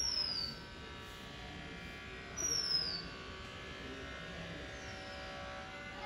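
A bird's high, thin whistle that falls in pitch, given three times about two and a half seconds apart, the last one faint, over a steady buzzing drone.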